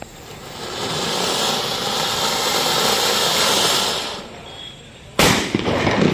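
Firecracker fountain (anar) spraying with a steady hiss for about three and a half seconds, then a loud bang about five seconds in as the combination cracker's bomb goes off.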